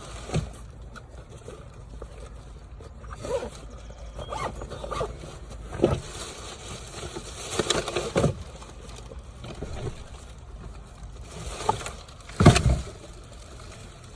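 Items being handled and moved about inside a car while it is cleaned out: irregular scrapes, rustles and knocks, with the loudest knock near the end.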